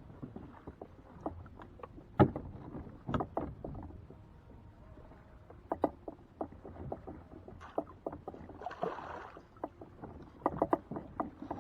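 Irregular knocks and clunks against a kayak's hull, the loudest about two seconds in, with a short rustling hiss around nine seconds.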